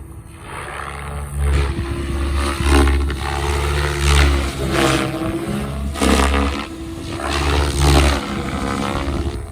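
Electric XLPower Specter 700 V2 RC helicopter in flight, its 1.6 m main rotor chopping the air. The sound swells and fades several times, with the pitch sliding up and down as it manoeuvres.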